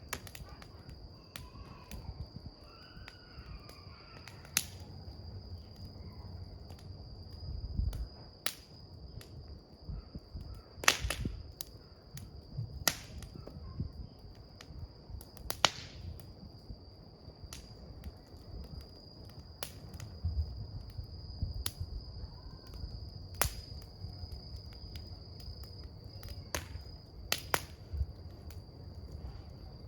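Wood campfire crackling: irregular sharp pops and snaps from the burning wood over a low rush of flame, with louder pops about eleven and sixteen seconds in. A steady high-pitched tone runs underneath.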